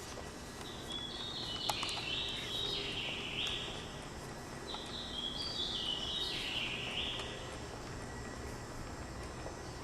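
A songbird singing two phrases of high, stepping notes a few seconds apart, over a steady low background hum.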